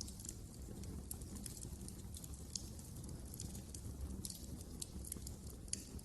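Wood fire crackling in a fireplace: a steady low rumble of burning with irregular sharp pops and snaps, a few of them louder, one near the end.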